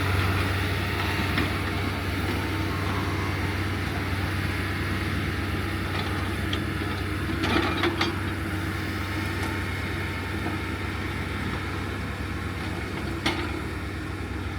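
Heavy earthmoving machine's engine running steadily with a low drone, with a few metal clanks about seven and a half seconds in and again near the end.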